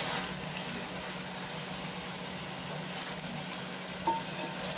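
Chicken masala sizzling in a large aluminium pot as a ladle stirs it, a steady frying hiss over a constant low hum. There are a couple of light ladle taps on the pot near the end.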